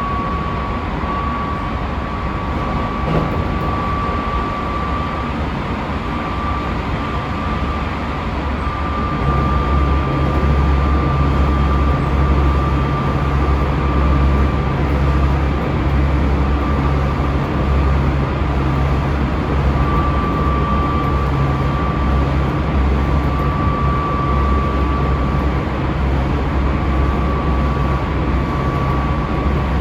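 Keisei 3700-series electric train running at speed, heard inside the car: a steady rumble of wheels on rail with a thin, steady high whine. About nine seconds in, the low rumble grows louder and stays that way.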